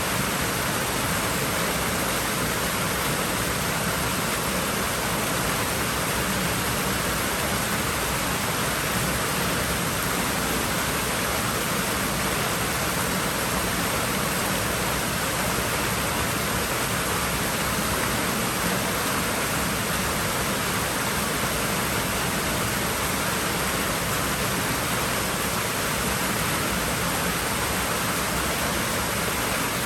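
Water running steadily in a swimming pool, an even hiss with no separate splashes.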